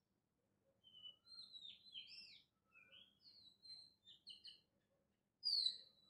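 Faint birds chirping in the background: scattered short whistled notes, with one louder falling call near the end.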